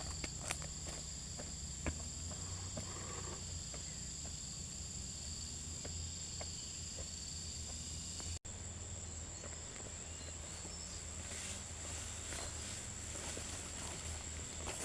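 Insects chirring in one steady high-pitched tone, with scattered light ticks and rustles. The sound drops out for an instant about eight seconds in.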